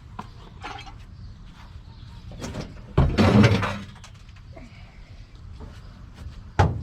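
Old car parts being handled and set down: a few light knocks, and a loud clatter of metal parts about three seconds in that lasts under a second.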